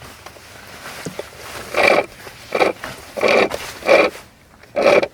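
A person's voice: five short, loud vocal sounds, roughly two-thirds of a second apart, in the second half.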